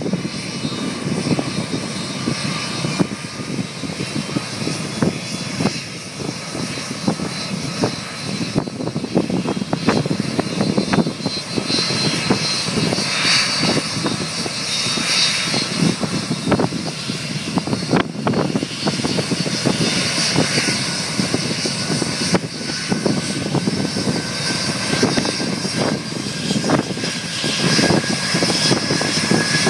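Boeing 757 jet engine running at high power during a ground run-up: a steady, loud roar with a fainter whine that climbs slowly in pitch.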